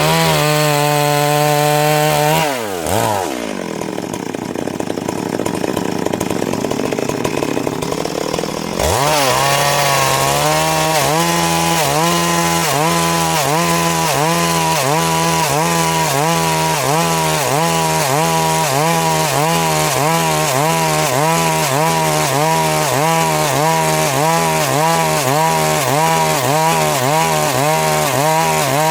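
Stihl MS 382 two-stroke chainsaw running at high revs while sawing wood. The engine speed dips twice near the start, sounds rougher and noisier for a few seconds, then settles into steady running with a regular, quick wavering in pitch.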